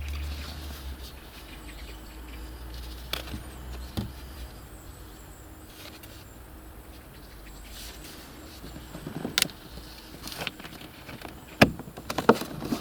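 Scattered clicks and knocks of hands handling plastic interior trim parts in a car, growing busier near the end, over a low steady hum in the first few seconds.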